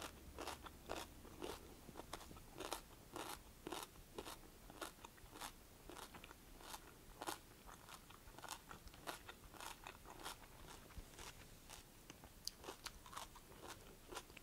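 Close-up chewing of a crunchy kohlrabi-noodle stir-fry with carrots and bean sprouts: a steady run of crisp crunches, about two or three a second.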